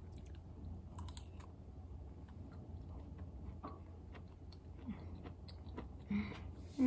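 A person chewing a spoonful of mushroom curry with the mouth closed: faint, scattered soft mouth clicks and smacks, with a short hummed 'mm' near the end.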